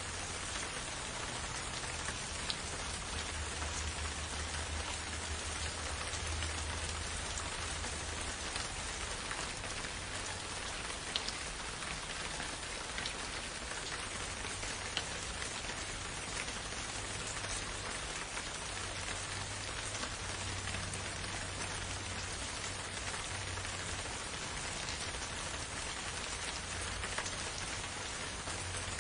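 Steady rain falling in a forest, an even hiss with scattered sharp drop ticks standing out. A low rumble underneath swells and fades a couple of times.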